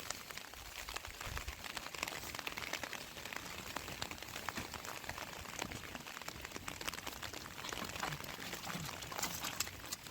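Rain falling steadily, a dense irregular patter of drops over a constant hiss.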